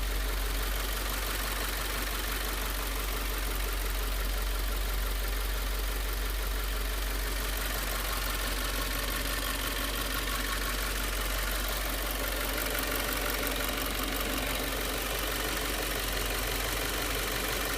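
Subaru WRX's turbocharged flat-four engine idling steadily, run on 87-octane regular gas, which the owner suspects may be making it knock.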